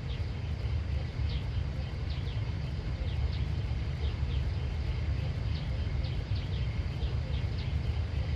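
Short, high, downward-sliding bird chirps repeating over a steady low rumble.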